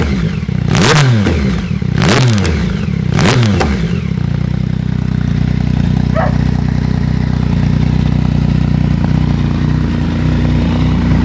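Yamaha MT-09/XSR900 inline-three engine through Black Widow aftermarket exhausts, blipped sharply about once a second for the first few seconds, each rev rising and dropping quickly, then settling into a steady idle about four seconds in.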